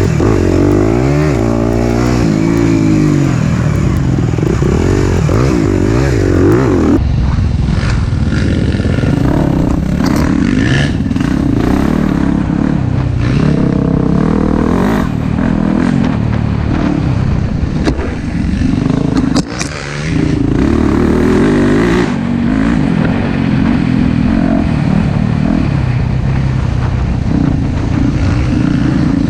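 Four-stroke dirt bike engine riding on a trail, revving up and down with the throttle, with a short throttle-off dip about two-thirds through.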